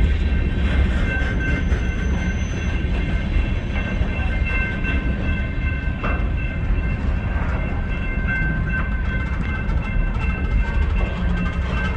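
BNSF freight train rolling on the tracks: a steady low rumble with a thin, steady high-pitched squeal held over it.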